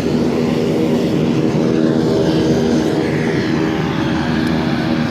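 Propeller-driven airplane engine running at a steady speed with an even, droning tone.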